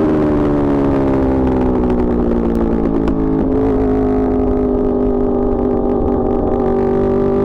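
Yamaha R1 sportbike engine and exhaust running loud, its pitch easing down over the first few seconds, then holding steady.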